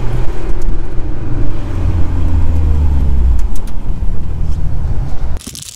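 Mitsubishi Lancer Evolution VIII MR's turbocharged 2.0-litre four-cylinder engine and road noise, heard from inside the cabin while driving. The engine note drops in steps about a second and two seconds in, then the sound cuts off abruptly near the end.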